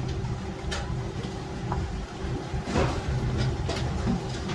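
Factory machinery running with a steady low hum, broken by a few sharp metal knocks, the loudest about three seconds in.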